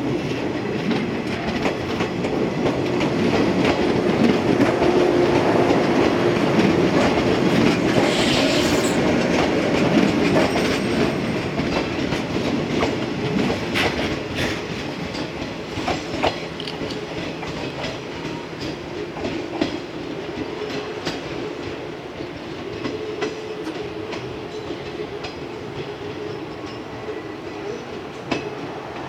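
Electric train running on the rails, its wheels clicking over the rail joints; loudest in the first third, then slowly growing quieter.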